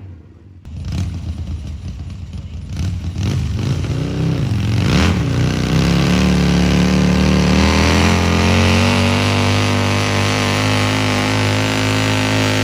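Pulling tractor's engine: comes in about a second in, revs up and down a few times, then runs loud and steady at high revs from about the middle on.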